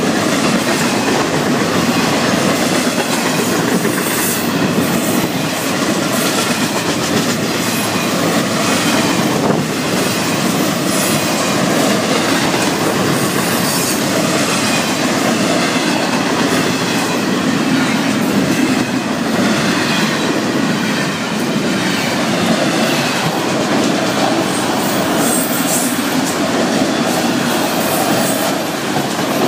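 Florida East Coast Railway freight train's double-stack container cars, then autorack cars, rolling past close by. A steady rumble and rattle of steel wheels on rail, with occasional sharp clacks.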